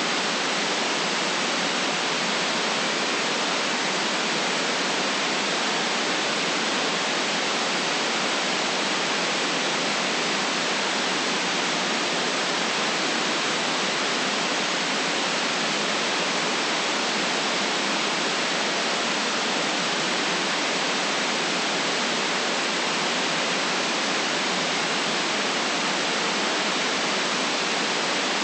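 Steady white noise played for sleep: an even, unchanging hiss, cut off at the top and with almost no bass.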